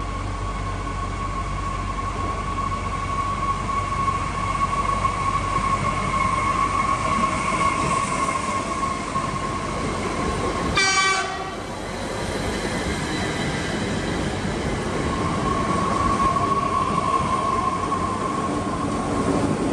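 Trains arriving at a station platform: a steady high squeal rings over the rumble of the running gear. The sound changes abruptly about eleven seconds in. After that an SNCF TER AGC railcar rolls in, and the same kind of squeal returns over its running noise.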